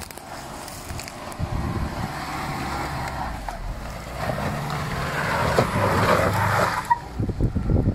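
Subaru Forester's flat-four engine working under load as the car crawls over rocks on a dirt track, growing louder toward the end. It cuts off suddenly about seven seconds in, leaving wind rumbling on the microphone.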